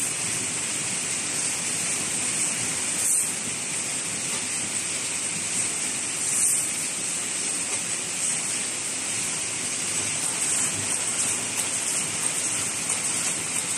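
Automatic wire mesh welding machine running: a steady, hissing machine noise that swells briefly twice, about three and six and a half seconds in.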